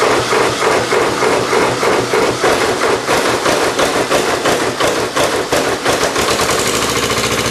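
Simplicity 7117 garden tractor's Kubota diesel just after catching on a cold start, with no glow plugs connected. It runs rough with uneven, hard knocking firing, then settles to a steadier, even idle near the end.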